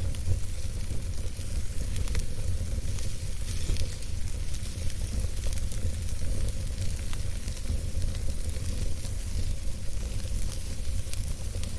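Campfire burning, a steady hiss dotted with many small, irregular crackles and pops, over a steady low rumble.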